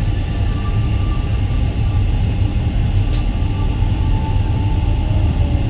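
Steady low rumble of a Boeing 777-200's engines and airframe heard inside the passenger cabin, with a few faint steady whining tones above it.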